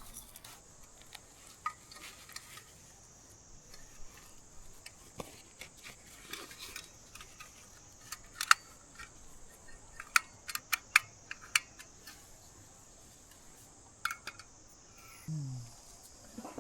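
Metal utensils and cookware clinking and clattering in scattered sharp clicks, most of them bunched about halfway through, as camp tea-making gear is handled. A steady high hiss runs underneath.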